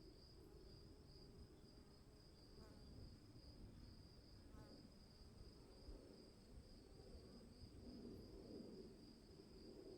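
Crickets chirping in a continuous high, faintly pulsing trill over a low, steady background noise.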